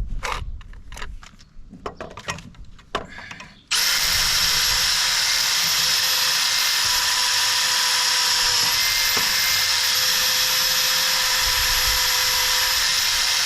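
A few clicks and knocks, then about four seconds in a power drill starts and runs at a steady speed, boring a hole through a wooden gate.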